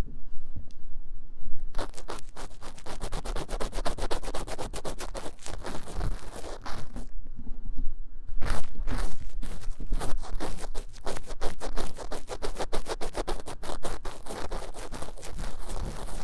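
Ear-cleaning tool scratching fast and hard inside the silicone ear of a 3Dio binaural microphone, in rapid strokes several a second. There is a brief pause about seven seconds in.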